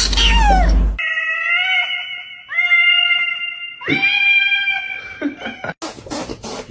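Cats meowing: a short falling meow, then three long drawn-out yowls, each held at a steady pitch for one to two seconds, followed near the end by a few clicks.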